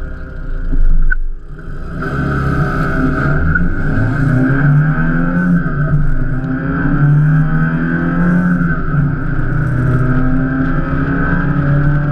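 Classic open-top sports car's engine pulling away from a standstill and accelerating hard through the gears, the revs climbing and dropping back at each upshift, heard from inside the open cockpit. A short loud burst comes about a second in as it pulls away.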